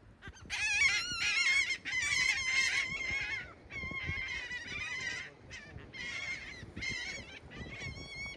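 Birds calling: a series of high, wavering calls, one after another with short breaks.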